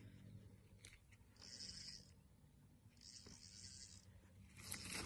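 Near silence, with two faint short rushes of hiss and a louder rush near the end.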